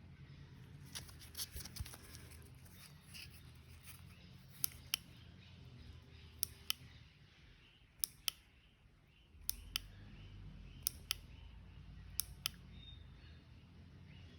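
Sachs Madass 125cc turn-signal flasher clicking on and off, a double click about every one and a half seconds, with the indicators running from a small battery pack.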